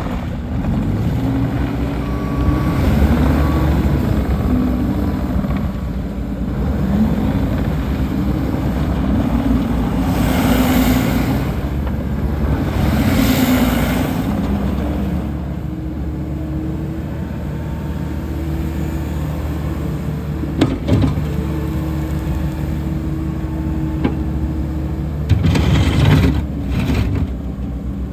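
2022 Case TR310B skid steer loader's diesel engine running, its speed rising and falling through the first half, then holding steady. Two bursts of hissing come near the middle, and a few knocks near the end.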